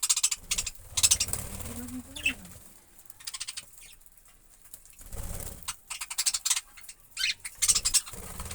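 Budgerigars chirping and chattering in short bursts of rapid high-pitched notes, several times.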